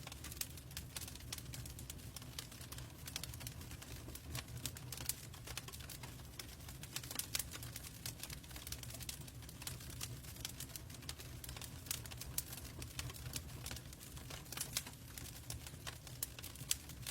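Wood fire burning in a fireplace: logs crackling with irregular sharp pops and snaps over a low, steady rumble of the flames.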